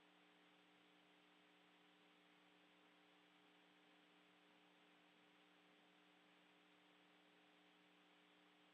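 Near silence: a faint, steady hiss with a low hum, the noise floor of the station-to-ground audio channel.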